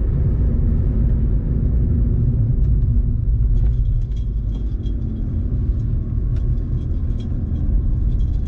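BMW 335d's M57 twin-turbo straight-six diesel running at low speed, a steady low rumble, with faint light ticks and rattles from about halfway through.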